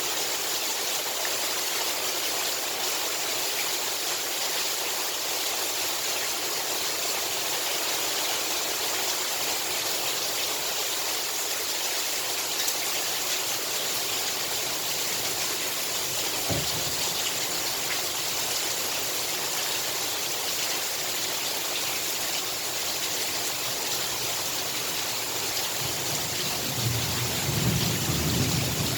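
Heavy rain falling steadily. A short low thump about halfway through, then low thunder rumbling near the end.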